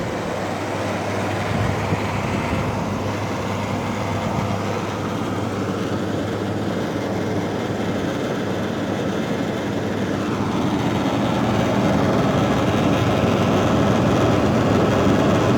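New LG air conditioner running with a steady hum and a little vibration noise: something in the unit is vibrating, cause unknown.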